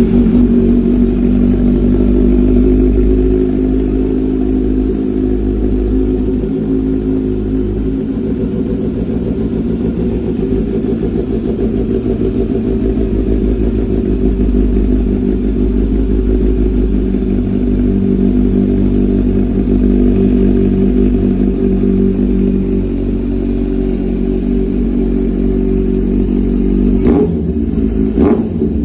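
Kawasaki Z900's inline-four engine idling steadily just after a cold start, with a deep, even exhaust note. Two short sharp sounds come near the end.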